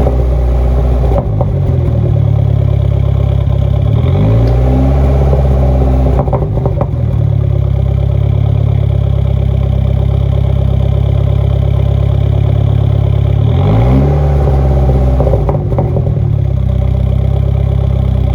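Dodge SRT-4's turbocharged 2.4-litre four-cylinder engine being revved, the revs climbing about four seconds in and again near the end, and each time hanging high instead of dropping back. This is a sign of a sticking throttle body.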